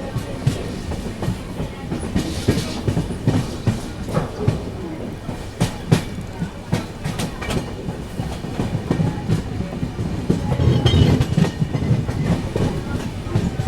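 Train rolling along the track, its wheels clattering over the rail joints in an uneven run of sharp clicks over a steady rumble.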